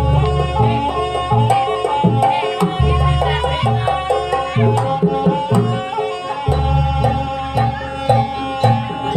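Live Banyuwangi jaranan dance music: kendang hand drums beat a quick, steady rhythm under a melody that slides between notes.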